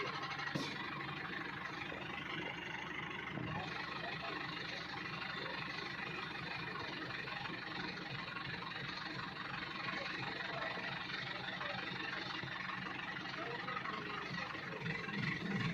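Farm vehicle engine running steadily, with a sharp click about half a second in and a thump a few seconds later. A rhythmic beat of music comes in right at the end.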